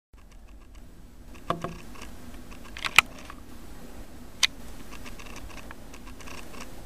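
Union Pacific manifest freight train rolling past with a steady low rumble, broken by a few sharp clicks, the loudest about three seconds in.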